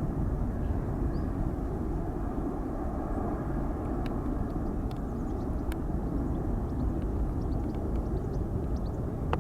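Boeing 747-400 jet engines, a steady low rumble with no clear rise or fall.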